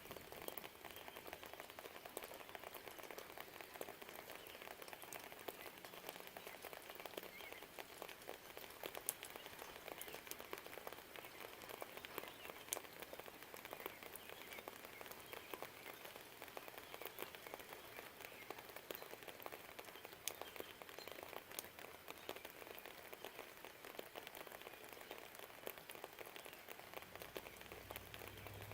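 Steady light rain, with many single drops ticking sharply through it. A low rumble comes in near the end.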